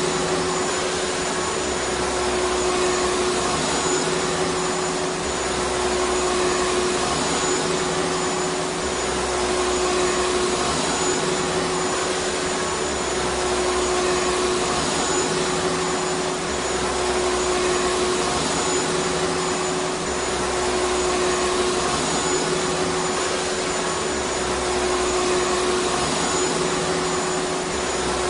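Vacuum cleaner running steadily: an even rushing motor-and-airflow noise with a constant hum, and a slow, regular pulsing in the low end every couple of seconds.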